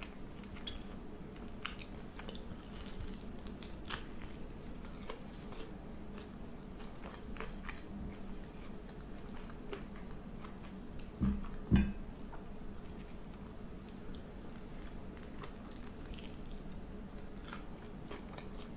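Close-miked eating: chewing and biting food with small wet clicks and crunches. Two dull thumps come close together about eleven seconds in.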